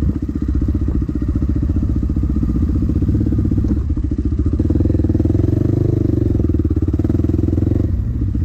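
Dirt bike engine running steadily with a fast pulse, the revs and loudness swelling a little about halfway through and easing near the end.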